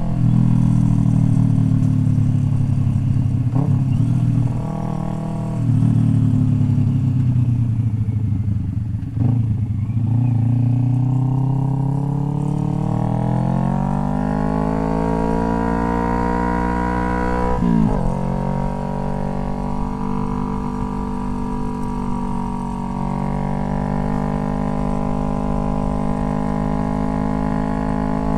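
Motorcycle engine heard from the rider's seat, with wind rumble underneath. The engine note drops off twice in the first ten seconds, then climbs steadily under acceleration, breaks briefly at a gear change near eighteen seconds, and settles into steady cruising.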